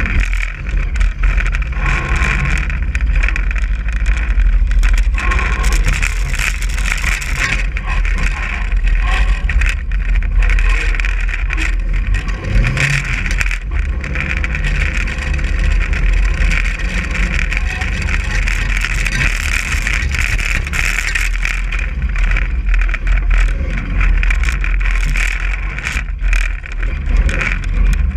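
Stripped-down demolition-derby junk car driven hard over a dirt trail, heard from on board: the engine runs loud and continuous with a deep rumble, and scattered knocks and rattles come from the bouncing car.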